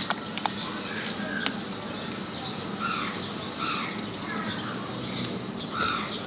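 Birds chirping in a steady repeated pattern, a short falling chirp about every half second, over a steady background hum. A few sharp clicks in the first second and a half fit a metal spoon tapping a plastic tub of bean filling as it is stirred.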